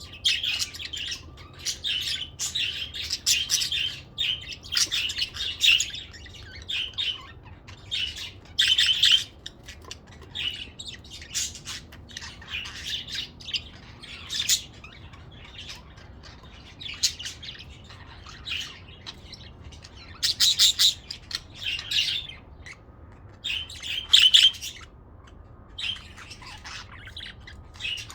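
A flock of budgies chattering and chirping, irregular bursts of warbling calls with short pauses in between.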